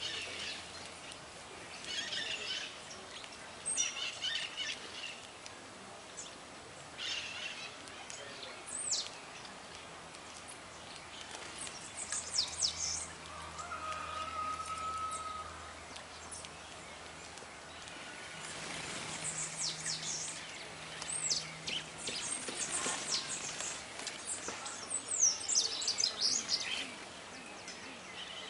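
Wild songbirds calling in the open: scattered short chirps and quick high downward whistles come in clusters every few seconds over a steady background hiss, with one short held whistle about halfway through.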